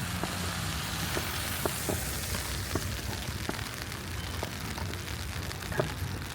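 Footsteps on a snowy city sidewalk, about two a second, over a steady low city rumble and an even hiss.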